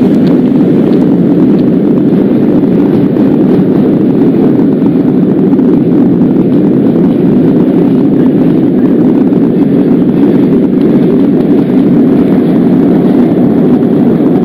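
Subway train running along the track: a loud, steady rumble with no change in pace.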